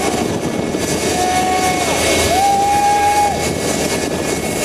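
Jet engine of a jet-powered drag racer running, a loud rushing noise with a high whine over it; about a second in the whine sets in, dips briefly in pitch, comes back a little higher and fades out past the middle.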